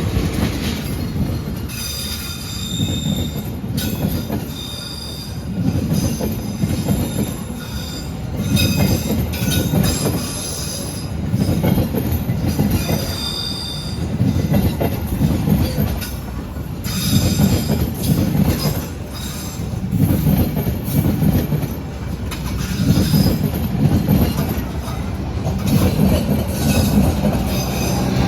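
Train carriages rolling past, the wheels beating over the rail joints in a swell that comes back about every three seconds, with high squealing tones from the wheels on and off throughout.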